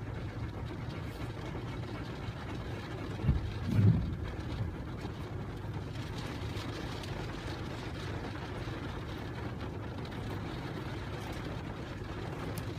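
Steady engine and road noise heard from inside a moving car's cabin, with one brief low thump about three to four seconds in.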